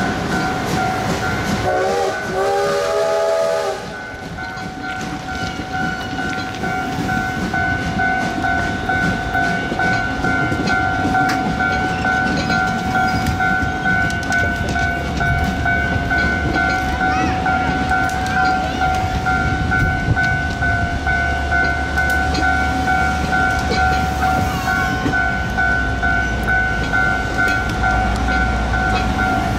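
Passenger train coaches rolling past close by, wheels clattering over the rail joints, with a short train whistle about two seconds in. A steady high ringing tone sounds over the rumble.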